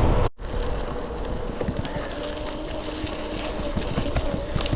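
E-bike rolling along: a steady thin whine over tyre noise, with scattered light ticks and clicks. Heavy wind rumble cuts off in a brief gap just after the start.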